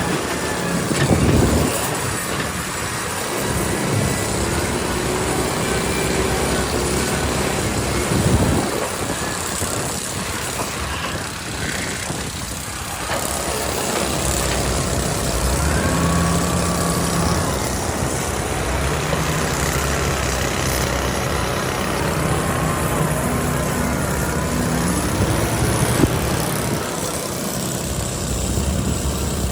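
Heavy machinery engine running, its low pitch shifting as it works under changing load, with a few sharp knocks: one about a second in, one around the middle third and one near the end.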